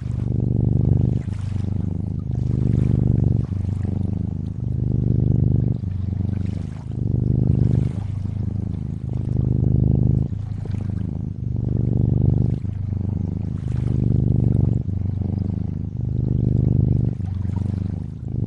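Domestic cat purring close up. The low, buzzing purr rises and falls with each in- and out-breath, about every second and a half, over a faint bed of lapping water.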